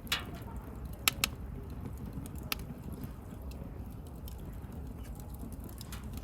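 Wood bonfire crackling over a steady low rumble, with a few sharp pops: one right at the start, two in quick succession about a second in, and another at about two and a half seconds.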